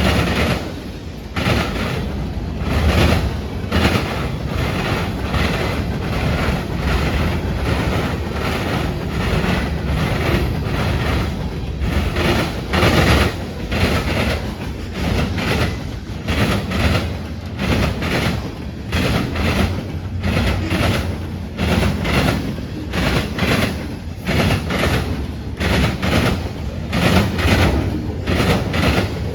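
Train rolling past: a steady rumble with frequent sharp clacks and knocks from the wheels on the rails.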